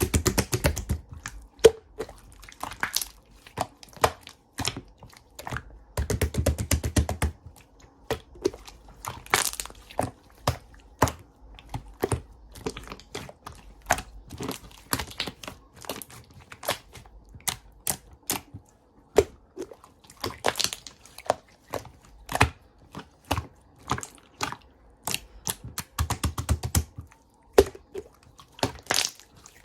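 Slime being played with by hand: a steady run of sticky clicks and pops. There are three stretches of fuller squelching: at the start, around six seconds in, and around twenty-six seconds in.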